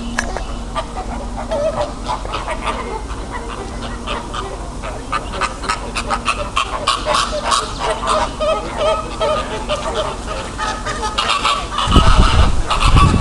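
Large birds calling in a rapid series of short honking calls that grows busier through the second half. A loud low rumble breaks in near the end.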